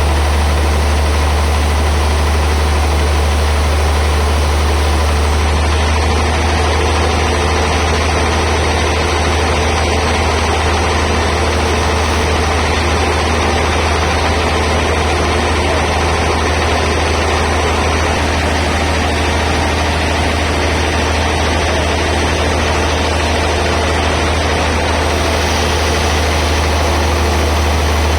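Band sawmill machinery running steadily: a constant deep drone with an even whirring noise over it, unbroken throughout.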